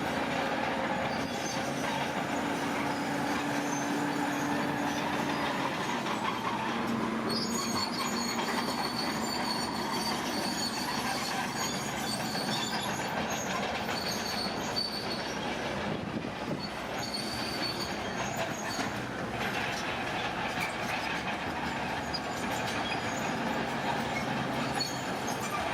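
Heavy earthmoving machinery working: a steady rumble of engine and running gear, with short high metallic squeals coming and going from about seven seconds in.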